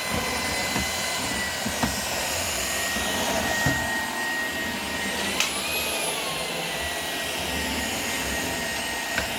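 Shark PowerDetect IP1251 vacuum cleaner running with its crevice tool, a steady motor whine over a rushing suction noise. About five seconds in, the whine swells up in pitch and settles back down. A few light clicks come through as debris is picked up.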